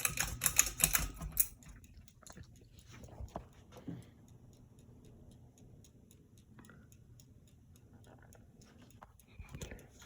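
Hampton Bay Landmark III Plus ceiling fan running with a low steady hum. A burst of rapid clicking and rattling lasts about a second and a half at the start, then faint regular ticking continues over the hum.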